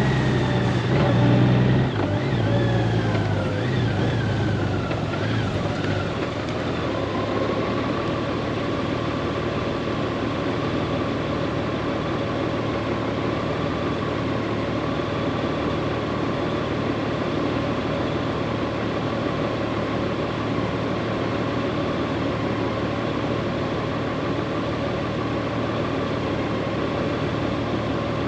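Honda GoldWing's flat-six engine with road and wind noise while riding. Over the first few seconds the engine note falls, then settles into a steady drone.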